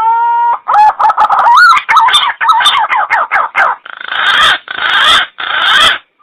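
Punai (green pigeon) lure call: a long whistled note that rises and holds, then a quick run of wavering, gliding whistled notes, ending in three harsh, hoarse bursts of about half a second each.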